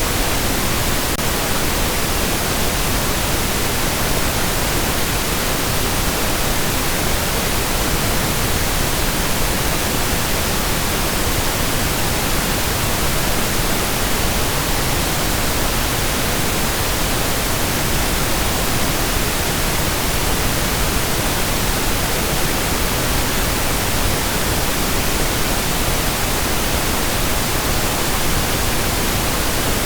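Steady pink noise: an even, unchanging hiss spread across all pitches, softer in the highs than white noise.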